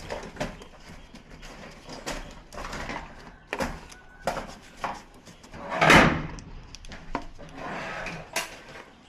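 Scattered light clicks and knocks from handling TV parts and tools on a workbench, with one louder scraping knock about six seconds in.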